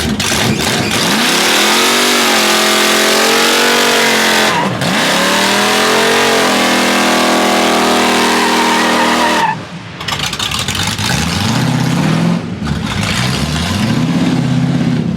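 A car engine revving hard, its pitch sweeping up and down, over a steady screech of spinning tyres, as in a burnout or donut. About two-thirds of the way through it cuts off suddenly and an engine is heard revving in repeated lower rises.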